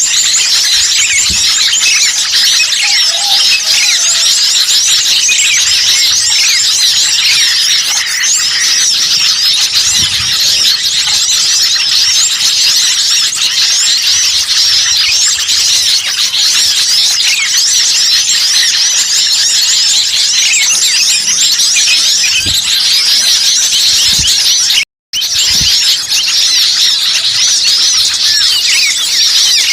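Bird-luring recording of many small songbirds calling agitatedly over one another: a dense, unbroken mass of quick high-pitched chirps and trills. The sound cuts out for a split second about 25 seconds in, then resumes.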